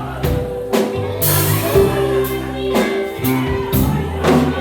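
Live band playing an instrumental passage between vocal lines: drum kit, bass and sustained chords, with a cymbal crash a little over a second in.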